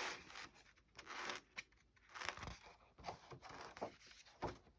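Paper rustling as a vintage paper doll book is handled and its pages turned: a few brief, soft swishes and light taps.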